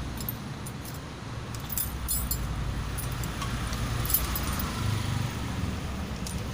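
Light metallic clinks and taps of tools and engine parts being handled while a Viar motorcycle engine block is assembled, scattered irregularly over a steady low background rumble.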